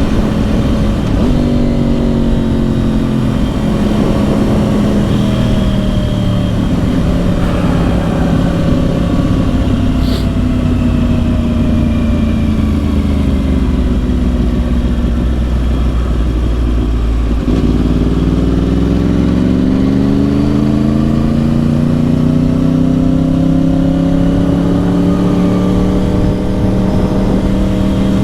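Yamaha R1's crossplane inline-four through Yoshimura exhausts, heard from the riding bike. The engine note falls slowly for about sixteen seconds as the bike slows, then rises steadily as it accelerates again.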